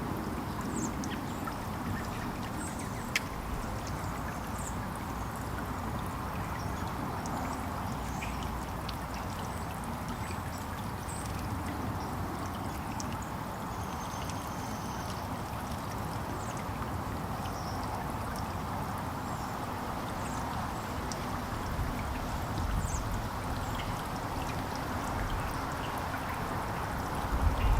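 Steady rushing background noise with faint, short, high chirps of small songbirds scattered throughout, and a single sharp click about three seconds in.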